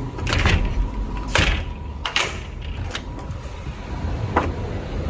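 A sliding balcony door knocking and rattling a few times, over a steady low rumble of street traffic.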